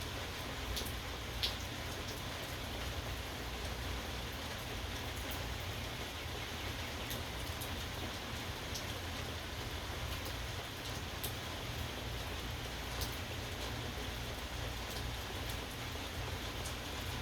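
Steady rain falling, with scattered individual drops ticking sharply on a surface; the sharpest comes about a second and a half in.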